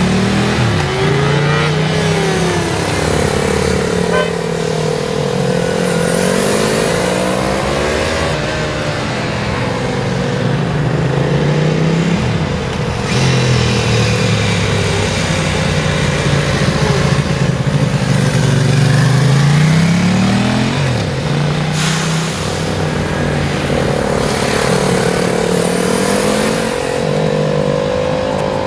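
Motorcycle engine revving up and falling back over and over, its pitch rising and dropping every few seconds, as in low-speed handling manoeuvres.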